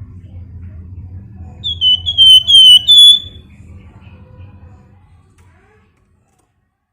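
Flamboyan songbird giving a quick run of about five loud, piercing whistled notes, each dipping slightly in pitch, the last held a little longer. A low hum runs underneath and fades out.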